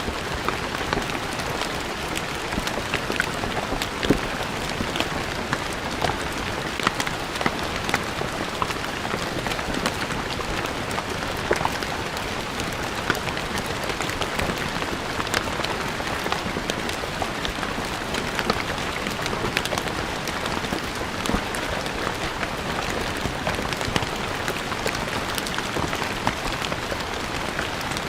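Steady rain falling on stone paving, a dense patter with many distinct drops splashing and ticking.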